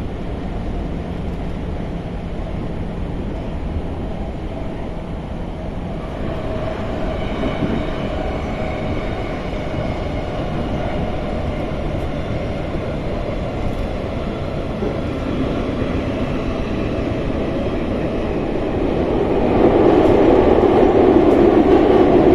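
MI84 RER B commuter train heard from inside the car while running between stations: a steady rumble of wheels and running gear. A faint high whine joins in about six seconds in, and the noise grows louder near the end.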